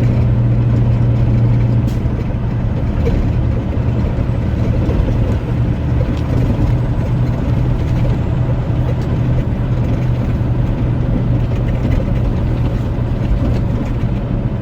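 Truck's diesel engine running with a steady low hum, heard from inside the cab over road noise. The engine note eases a little about two seconds in.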